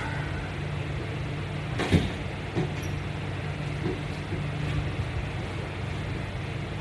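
A steady low hum, with one sharp knock about two seconds in and a few softer knocks after it.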